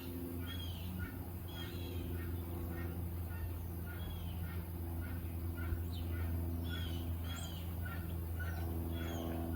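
A bird chirping over and over, two or three short calls a second, over a steady low hum.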